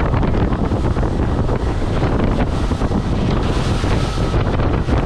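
Strong wind buffeting the microphone on a boat at sea, over a steady rush of water and waves.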